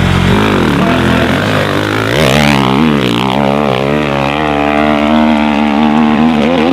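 Dirt bike engine revving hard under load on a steep hill climb. Its pitch wavers up and down with the throttle and rises sharply about two seconds in.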